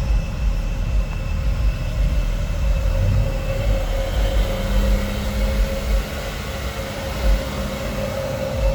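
Loud, booming bass from a car audio system's 18-inch subwoofers, pulsing irregularly and overloading the microphone.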